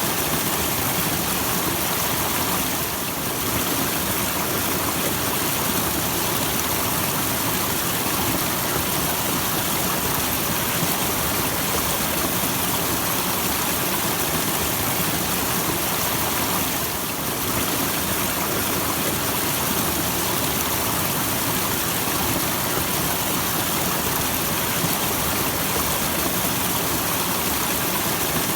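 Small waterfall splashing and rushing steadily, a dense even noise of falling water.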